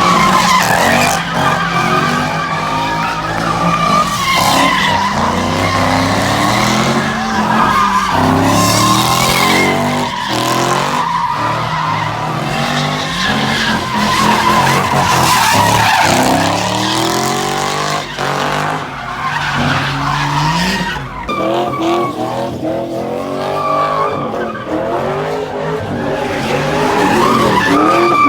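A car spinning its tires: the engine revs up and down again and again over a long, steady tire squeal.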